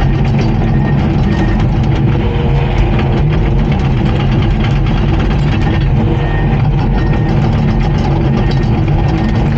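Diesel engine of a Komatsu D39PX crawler bulldozer running steadily, with light clattering over the engine note.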